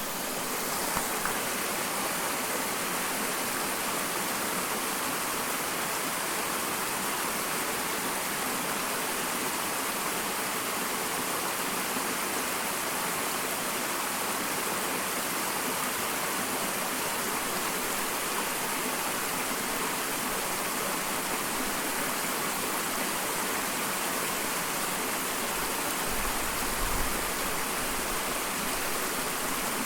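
Small waterfall: water pouring and splashing in a steady, even rush. A low rumble joins in near the end.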